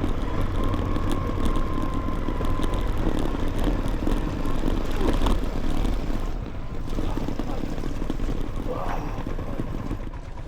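Motorcycle riding along, its engine running under a steady rumble of wind noise on the microphone.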